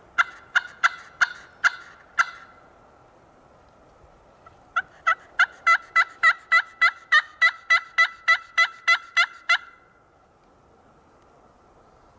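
Turkey yelps: a short run of about seven sharp notes, a pause, then a long fast series of about eighteen at roughly four a second.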